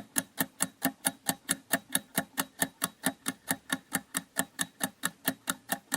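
Countdown timer sound effect ticking steadily, about four ticks a second, as a quiz answer timer runs down.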